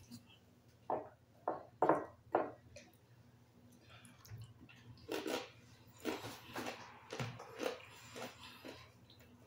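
Close-up chewing and crunching of crispy chicken-skin chicharon, with four short mouth sounds in the first few seconds and a run of crunches in the second half.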